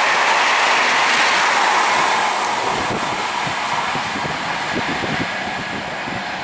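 Indian Railways passenger train running past on the track, a loud steady rush of wheel and rail noise that falls away about two seconds in as the train draws off.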